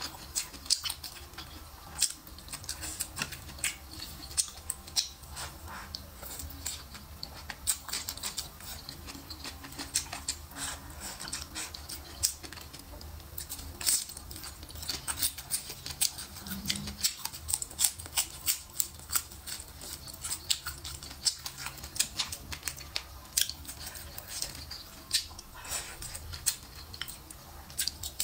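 Close-miked chewing and crunching of stir-fried pepper pork and prawns: many sharp, irregular crackles and clicks of wet mouth sounds.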